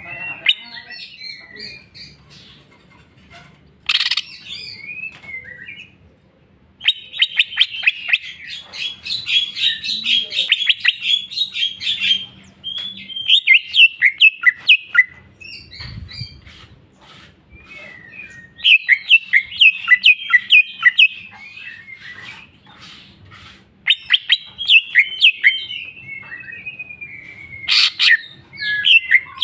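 Greater green leafbird (cucak ijo) singing in long bursts of rapid, varied chirps and trills, with short pauses between phrases and a long falling note near the end. This is the bird running through its repertoire of learned songs. Two sharp clicks sound, one about four seconds in and one just before the end.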